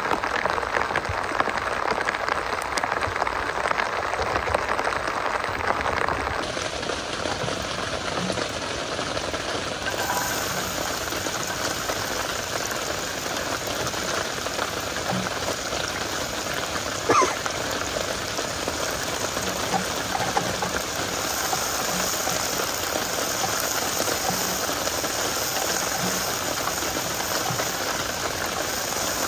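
Heavy rain falling steadily, a dense hiss of drops, with one sharp click about 17 seconds in.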